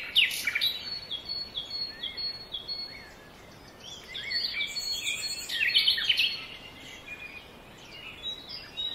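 Small birds chirping: a run of short repeated chirps, about two a second, in the first few seconds, then a busier burst of twittering around the middle.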